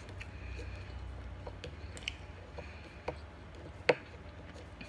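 Close-miked eating: scattered soft clicks and squishy mouth sounds of chewing food, the sharpest click about four seconds in, over a low steady hum.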